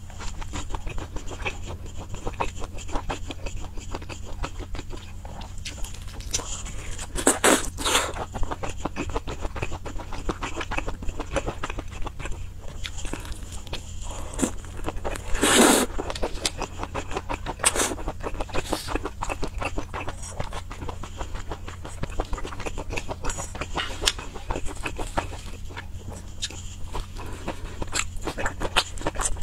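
Close-up eating sounds of saucy, chili-coated skewered food: steady wet chewing and lip-smacking, a dense run of small mouth clicks, with a few louder smacks or slurps, the loudest about halfway through.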